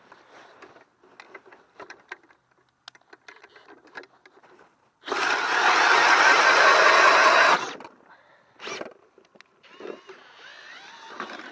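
Ridgid 18-volt brushless hammer drill spinning a 6-inch Swede-Bore ice auger through thin ice: a loud burst about two and a half seconds long starting about five seconds in, then stopping suddenly. Light clicks and knocks of handling come before it.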